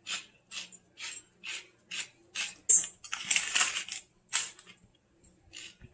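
Pepper mill being twisted over raw chicken, a gritty crunch about twice a second with one longer grind in the middle.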